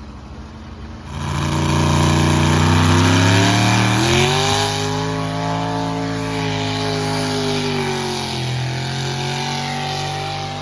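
Modified two-wheel-drive truck's engine running hard: it comes in loud about a second in, its pitch climbs around four seconds in and holds, then drops a little near eight seconds and runs on steady.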